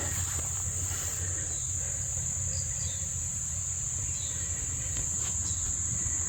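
Insect chorus, likely crickets: a steady, unbroken high-pitched trill over a low rumble.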